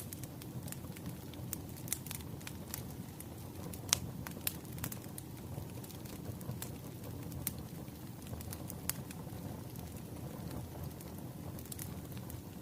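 Firewood burning: a steady low rumble with scattered sharp crackles and pops, the loudest about four seconds in.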